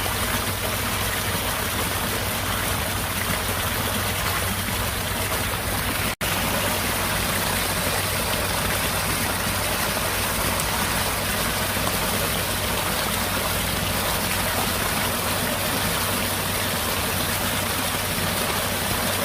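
Steady rushing noise of rainfall and running water, even throughout; it cuts out for an instant about six seconds in.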